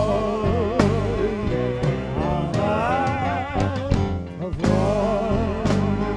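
Live band playing: drums and bass under a wavering melody line with strong vibrato, with no words sung.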